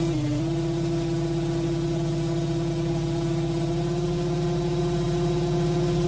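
An engine running steadily at an even speed, a constant hum with a low rumble underneath.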